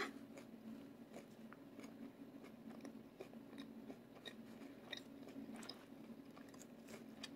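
Faint chewing, with scattered light clicks of a metal fork picking salad from a plastic takeout tray, over a low steady hum. One slightly louder click right at the start.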